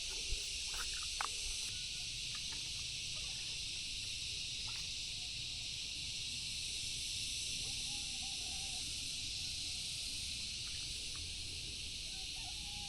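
Steady, high-pitched chorus of insects, with a low rumble underneath and a few faint clicks and short calls.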